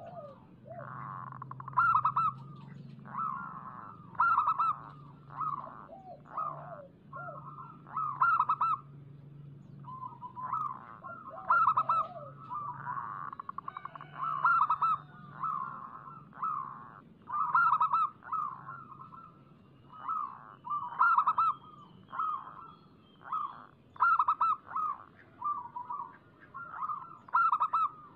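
Zebra dove (perkutut) cooing over and over, short rapid trilled coos following each other about once a second, over a faint steady low hum.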